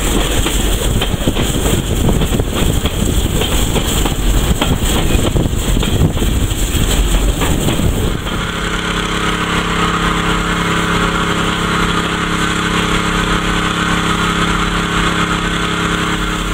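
Heritage train running along the line, a dense rumble with fine rail clicks. About halfway through, the rumble gives way abruptly to a steady, even engine drone.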